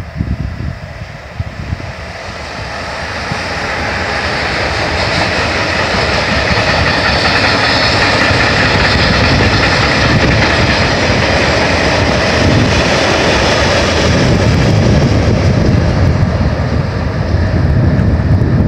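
Freight train of tank wagons hauled by a Renfe class 253 electric locomotive passing close by. The sound grows over the first few seconds as the locomotive arrives, then holds steady and loud as the wagons roll past, their wheels running over the rails.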